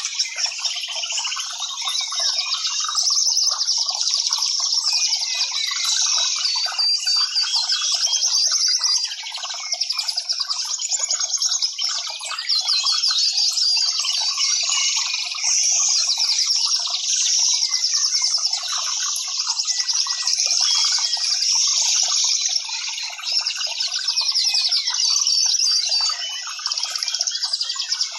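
Many small birds chirping and trilling at once in a dense, unbroken chorus.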